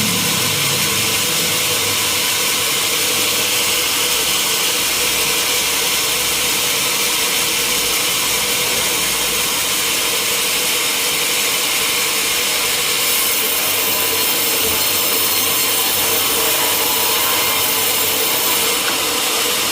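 Sawmill saw cutting through a teak log: a steady, loud hiss of the blade in the wood over a constant machine hum, growing brighter about two-thirds of the way through.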